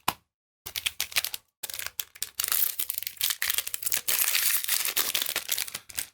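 Plastic booster pack wrapper being torn open and crinkled in the hands, an irregular run of crackling rustle that starts after a short pause and grows dense from about a second and a half in.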